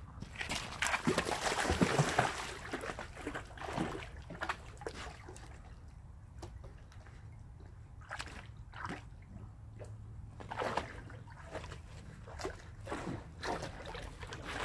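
A dog wading through a shallow pool, sloshing and splashing irregularly as it searches the water, busiest in the first few seconds.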